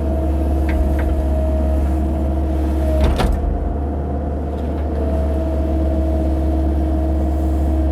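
Cat 308 mini excavator's diesel engine running steadily with a whine over its low hum, and a single clunk about three seconds in.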